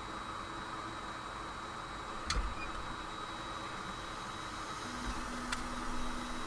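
Steady mechanical hiss from bench equipment with a faint high whine, two light clicks, and a low hum that comes in near the end.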